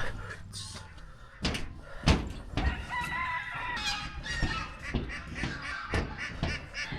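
A rooster crows once, a long pitched call about three seconds in, over a series of footstep-like thuds about every half second.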